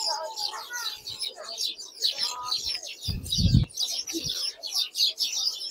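A crowd of small birds chirping busily and without pause, with a brief low bump about three seconds in.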